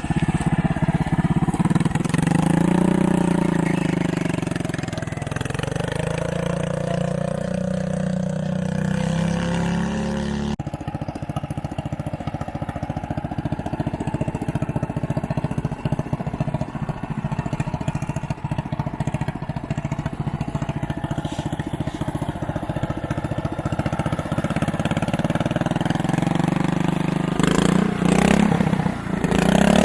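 John Deere 210 lawn tractor's engine running under way, its pitch rising and falling with the throttle. The sound changes abruptly about ten seconds in, then runs steadier before swinging up and down again near the end.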